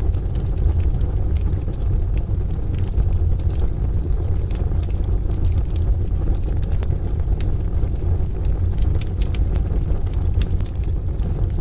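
Wood stove fire crackling with scattered sharp pops, over a steady low rumble from rain and distant thunder.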